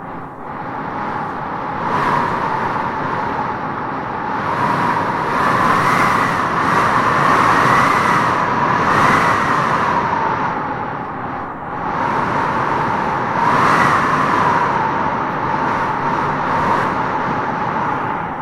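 Strong wind howling, with a whistling tone that rises and falls as it gusts.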